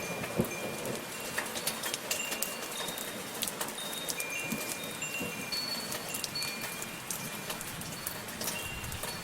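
Steady soft rain pattering, with metal wind chimes ringing now and then in high, clear notes.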